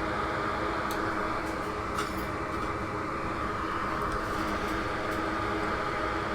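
Steady whirring hum of a small electric fan, with a few faint light ticks about a second in, around two seconds in, and again between four and five seconds in.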